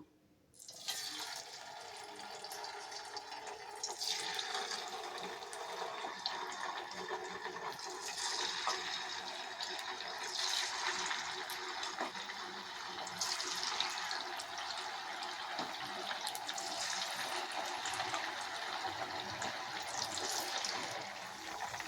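Marinated chicken pieces deep-frying in hot oil: a steady sizzle with fine crackling that starts about a second in and grows louder about four seconds in.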